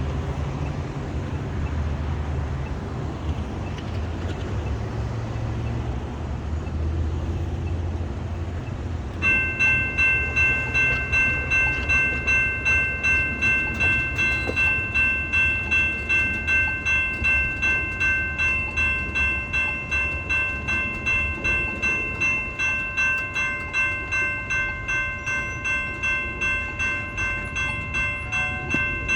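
Low road-traffic rumble, then about nine seconds in the railroad crossing bells start ringing, about two strokes a second. They keep ringing as the crossing signals activate for an approaching train.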